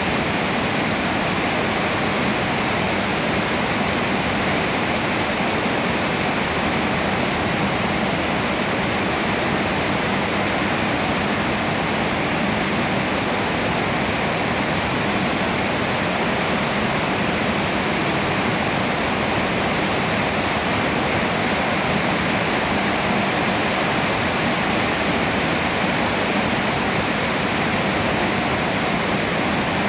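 Steady rainfall on leafy trees, an even, unbroken hiss that holds at one level throughout.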